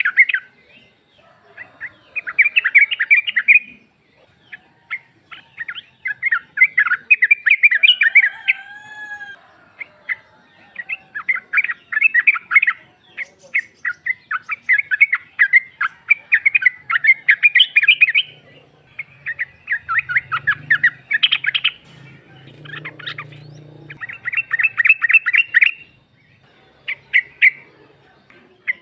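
Female yellow-vented bulbul (trucuk) calling: loud bursts of rapid chattering notes, one after another with short pauses, used to call a male.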